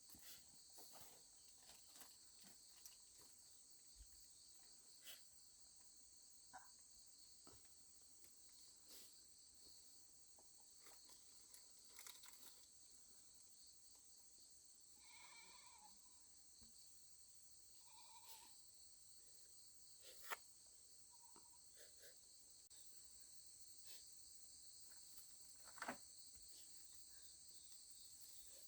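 Faint steady insect chorus, crickets chirring in a continuous high-pitched drone, with scattered small clicks and a few brief higher calls.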